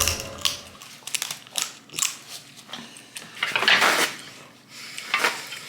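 Snow crab leg shells being cracked and picked apart by hand: irregular sharp clicks and crunches, with a longer crunch about three and a half seconds in.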